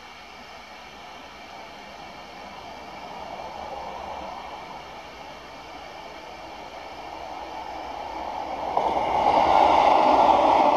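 Electric commuter train approaching on the line, its running noise growing steadily and then rising sharply near the end as it passes close by.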